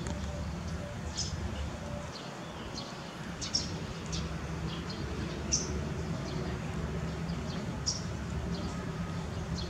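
Birds chirping in the background: a handful of short, high chirps scattered through, over a steady low background rumble.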